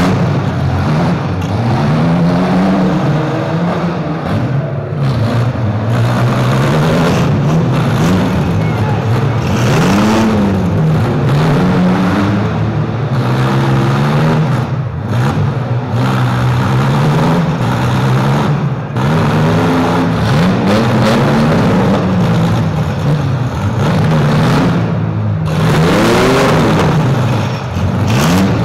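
Engines of demolition-derby SUVs and small trucks revving up and down again and again, the pitch rising and falling every couple of seconds, with the crunch of vehicles colliding now and then.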